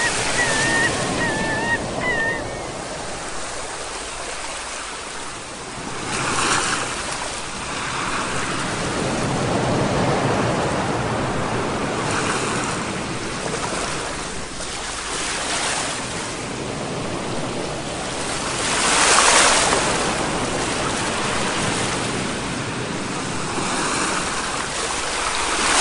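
Ocean surf: waves swelling and washing in over and over, in uneven surges about every few seconds. The biggest surge comes about three quarters of the way through.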